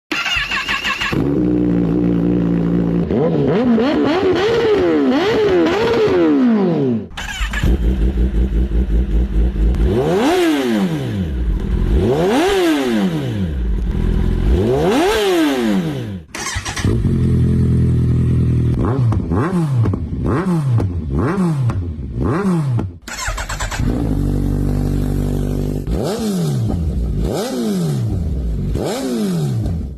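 Kawasaki superbike exhausts, several bikes one after another, idling and being blipped: each rev rises and falls quickly in repeated bursts. The sound changes abruptly between bikes several times.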